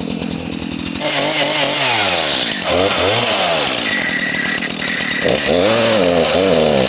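Two-stroke chainsaw running and cutting through a large downed tree, its engine pitch sagging under load and picking back up several times.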